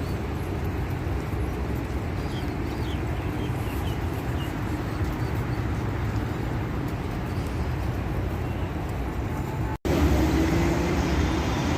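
Steady city road traffic rumble. It drops out for an instant near the end and comes back louder, with a vehicle's engine tone slowly rising.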